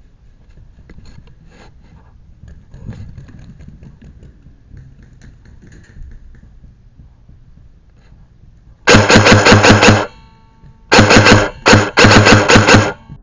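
Airsoft rifle firing three full-auto bursts, rapid evenly spaced shots, the second and third close together in the last few seconds, after several seconds of faint rustling from the player moving.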